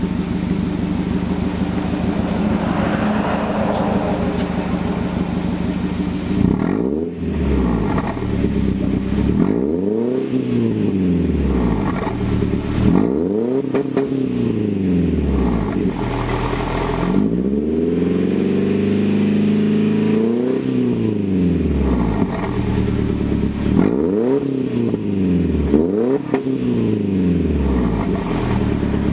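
Mercedes E220 engine through a custom stainless-steel exhaust, idling steadily, then revved again and again: about seven blips that each rise and fall in pitch, one held longer in the middle.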